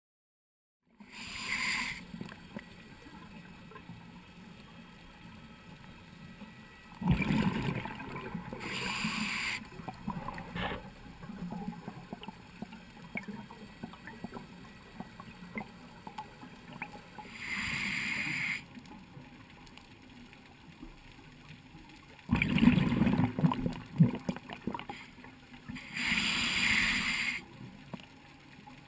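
Scuba diver's exhaled bubbles from the regulator, recorded underwater: bursts of gurgling about a second long every few seconds over a low steady hum.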